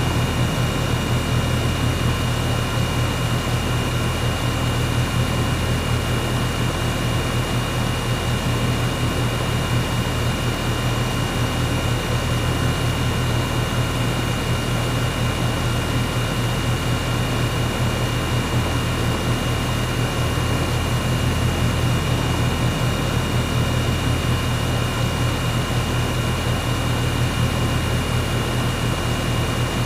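Air conditioner running: a steady low hum under an even rush of air, with a faint high whine held at a constant pitch.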